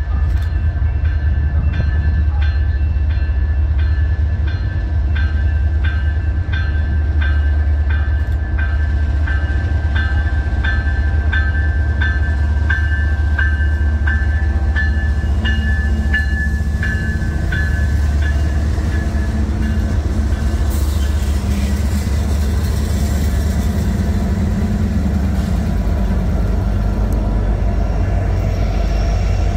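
A train running past with a steady low rumble, while a bell rings evenly about twice a second and fades out a little past the middle.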